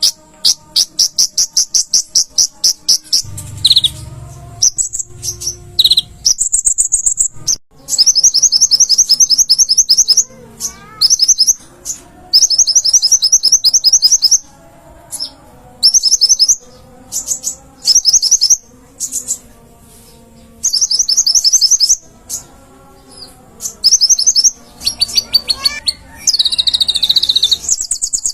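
Konin (kolibri ninja) sunbird singing: loud, very fast, high trilling chatter in repeated phrases of one to two seconds each, broken by short pauses.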